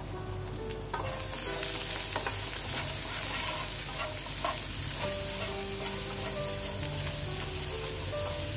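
Boiled black chickpeas sizzling in a little hot oil in a nonstick frying pan while being stirred with a wooden spatula, which clicks and scrapes against the pan. The sizzle swells about a second in, once the stirring starts, as the chickpeas are lightly roasted to crisp them.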